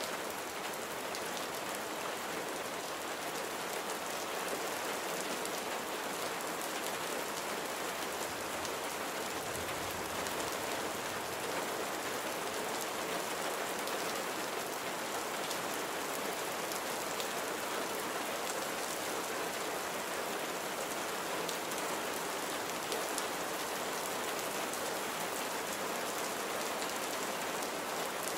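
Steady rain falling, a dense even hiss with scattered drop ticks, and a faint low rumble about ten seconds in.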